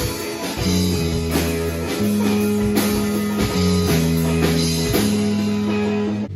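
Rock music played on guitar, bass and drum kit with a steady beat. Near the end it drops to a quieter passage.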